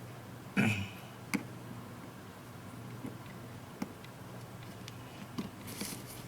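Small clicks and taps of hands and tools working on a tablet's internal parts, with a louder knock and rustle about half a second in and a short scrape near the end, over a steady low hum.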